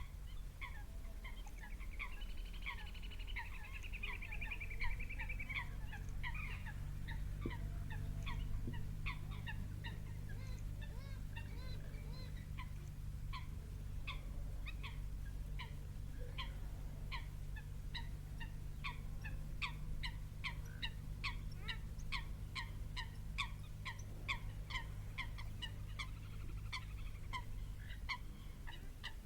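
A rapid series of short animal calls at a pond, about two a second and growing denser in the second half. A higher warbling call comes a couple of seconds in. A steady low hum runs underneath.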